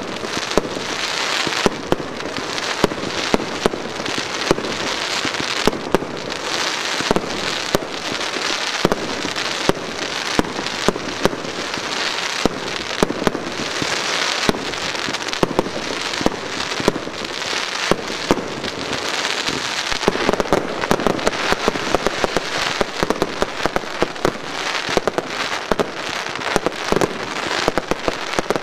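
Aerial fireworks finale: a continuous hiss and crackle of gold effects with sharp bangs about once a second, the bangs coming thicker and faster from about twenty seconds in.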